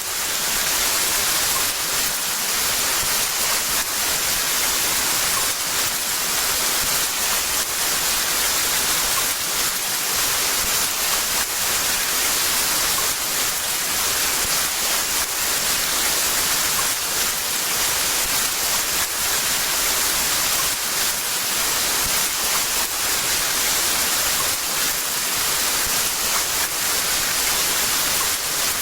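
Heavy rain pouring down in a dense, steady hiss, fading in over the first second.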